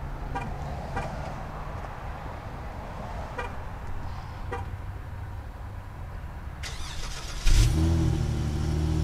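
A 2019 Dodge Charger GT's 3.6-litre V6 is started near the end: a brief crank, then it catches with a loud flare and settles into a steady idle. Before that there is only a low steady hum with a few faint clicks.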